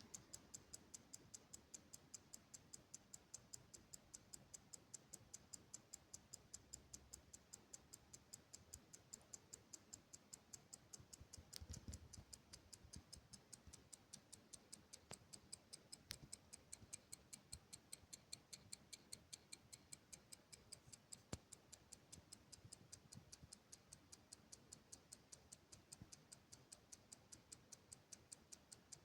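A clock ticking quietly and evenly, several quick ticks a second, with a brief low thud about twelve seconds in.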